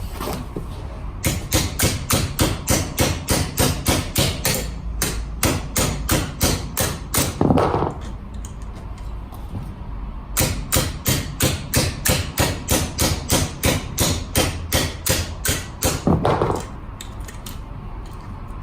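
Rapid hammer blows, about four a second, in two runs of roughly six seconds each, each run ending in a louder, lower-pitched sound. This is typical of knocking on a seized scooter rear wheel to free it.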